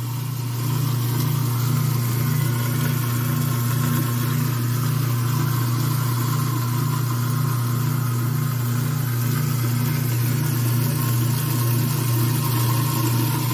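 Kitchen sink garbage disposal running steadily with water flowing through it: an even motor hum over water noise. The disposal is running freely and draining with no backup, now that the plastic clogging it has been removed.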